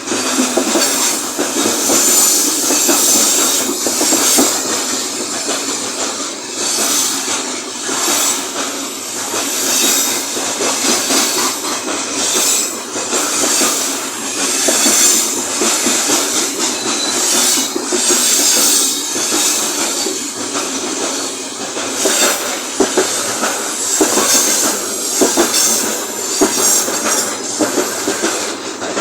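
Freight train wagons rolling past at speed: a steady rumble and rush with repeated clacks of wheels over rail joints.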